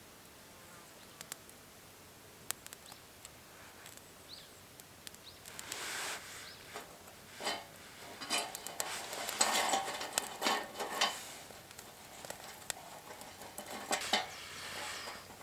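Camp cooking gear and food being handled: a few light clicks, then irregular rustling and clattering from about five seconds in, busiest around ten seconds in.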